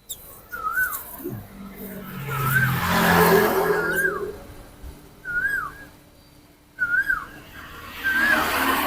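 A short clear whistle that rises then drops, repeated about six times at uneven gaps of one to three seconds, with a swell of rushing noise like a passing vehicle about two to four seconds in and again near the end.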